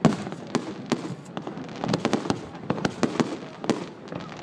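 Fireworks display: an irregular string of sharp bangs from bursting shells, about three a second, the loudest right at the start.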